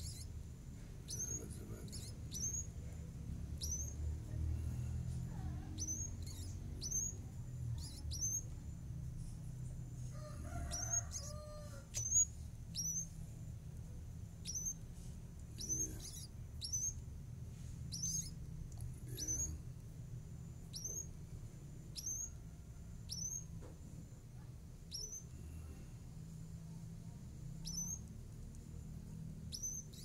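A nestling bird cheeping over and over: short, very high peeps roughly once a second, over a low rumble. A single sharp tap about twelve seconds in.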